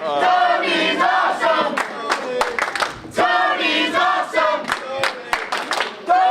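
Wrestling crowd chanting in unison in repeated phrases, with scattered sharp claps.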